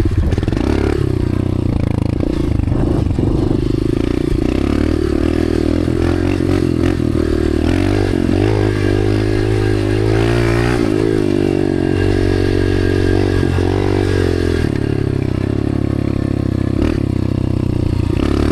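Dirt bike engine running hard under throttle, close up, its pitch rising and falling as the rider revs on and off the throttle about halfway through.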